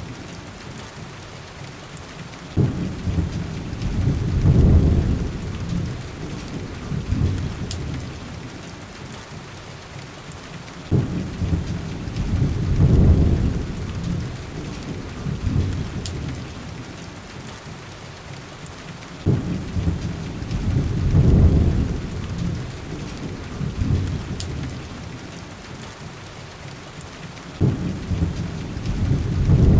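Heavy rain pattering on window glass with a steady hiss, under low thunder rumbles. Four rumbles come about eight seconds apart, each starting suddenly, swelling for a couple of seconds, then fading back into the rain.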